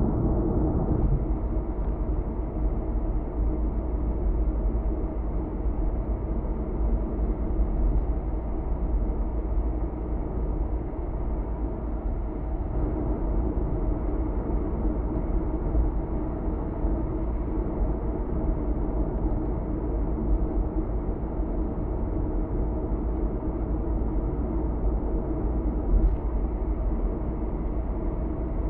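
A car cruising steadily on an expressway: an even rumble of tyre and road noise with the engine underneath. A brief click comes near the end.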